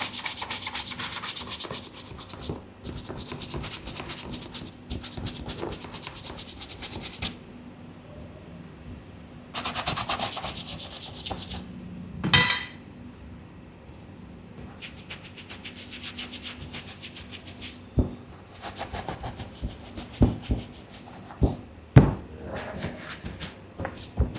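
Fast, dense scrubbing strokes of a brush or pad working over a sneaker, in several spells with short pauses between them. About halfway through comes a brief pitched squeak, and near the end a few sharp knocks.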